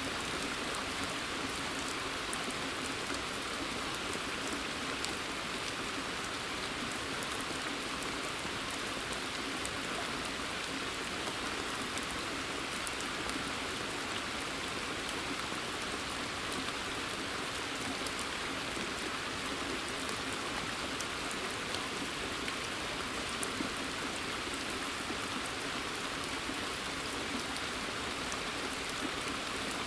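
Steady rain falling in a forest and onto a water surface: an even hiss with scattered ticks of single drops.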